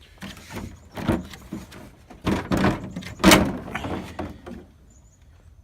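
A string of irregular knocks and short clattering scrapes, with the loudest sharp knock about three seconds in.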